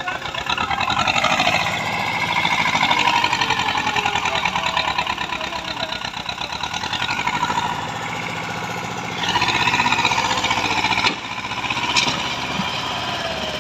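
Diesel engine of a JCB digging machine working under load: it revs up about a second in, eases back, revs up again for about two seconds and drops off abruptly a couple of seconds before the end.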